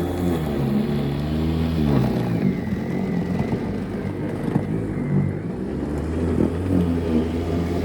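Lawn mower engine running steadily. Its speed sags about two seconds in and picks back up a few seconds later.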